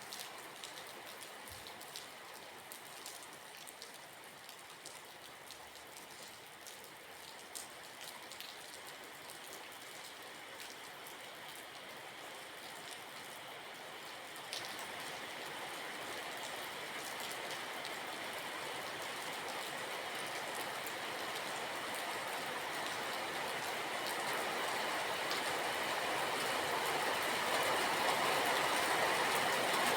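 Steady rain with scattered individual drops ticking on a surface. About halfway through, a rushing sound gradually grows louder.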